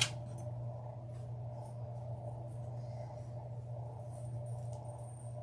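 Steady low hum with faint rustling and handling noises over it, and a brief click at the start.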